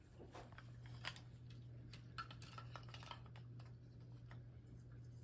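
Faint scattered clicks and clacks of wooden toy train track pieces being handled and fitted together, over a steady low hum.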